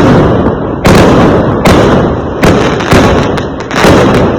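Fireworks exploding in a rapid series of loud bangs, about six in all, a little under a second apart. Each bang trails off in a low rumble before the next.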